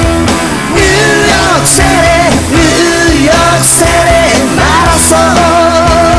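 A rock song playing loudly: a full band with drums, bass and guitar under a gliding lead melody.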